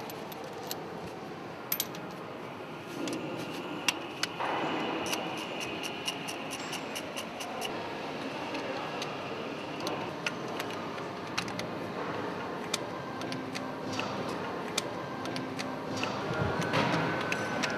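Hand tools and bolts clinking and clicking against metal as bolts are worked loose on a marine diesel's cylinder head, in scattered light metallic ticks over a low background hum.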